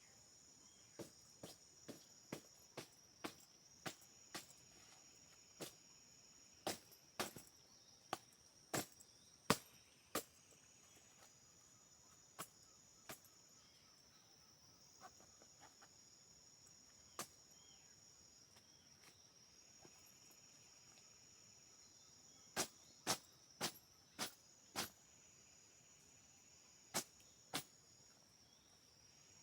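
A high-pitched chorus of forest insects buzzing, dropping out and returning every few seconds. Over it come sharp, loud clicks or knocks at uneven intervals, bunched in clusters about a quarter of the way in and again near the end.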